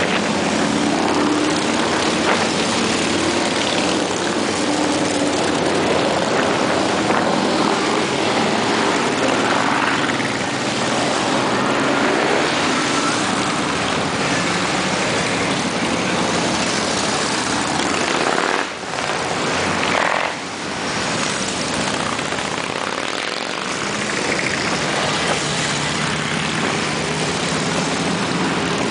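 A long column of motorcycles riding past, their engines blending into one continuous, dense drone that dips briefly twice about two-thirds of the way through.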